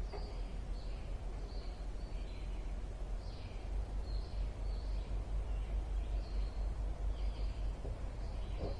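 Birds chirping in short repeated calls, over a steady low rumble.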